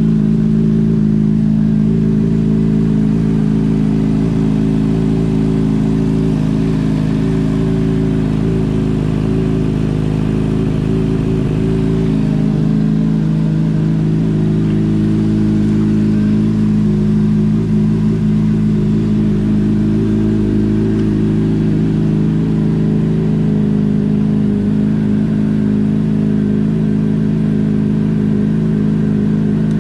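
2007 Honda CBR600RR's inline-four engine idling steadily through an aftermarket slip-on exhaust.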